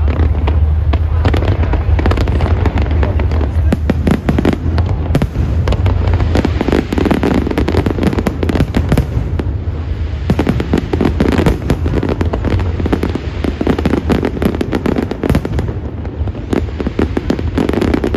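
Display fireworks going off in a dense, continuous barrage: rapid overlapping bangs and crackles over a steady low rumble.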